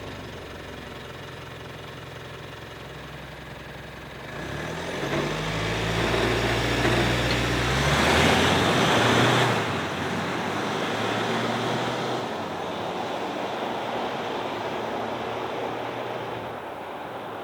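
2019 Mitsubishi Triton's 2.4-litre four-cylinder turbo-diesel running, quiet at first, then growing louder from about four seconds in. A loud rushing noise peaks around eight to nine seconds in, and the engine then settles to a steadier, quieter drone.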